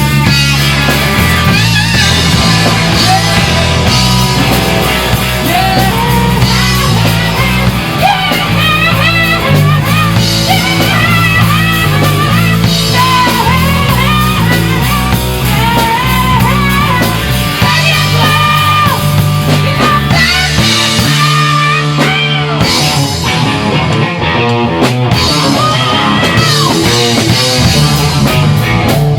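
A rock band playing live in rehearsal: guitar, bass and drum kit, with singing over the top.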